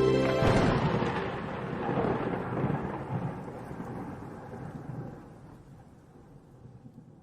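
Thunder rumbling: a sudden clap about half a second in, then a long rumble that slowly dies away over several seconds.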